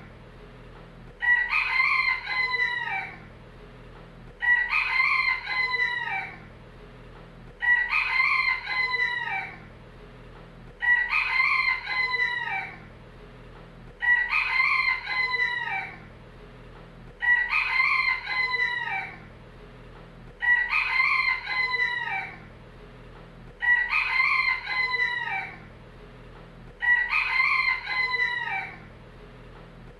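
Rooster crowing: the same cock-a-doodle-doo repeated nine times, about every three seconds, each crow lasting about two seconds and falling in pitch at its end.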